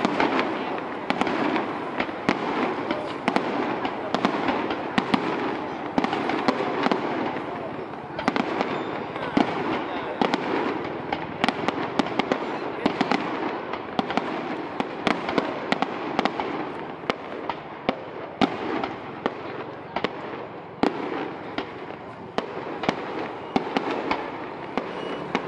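Fireworks display: aerial shells launching and bursting in a steady run of sharp bangs and crackles, several a second.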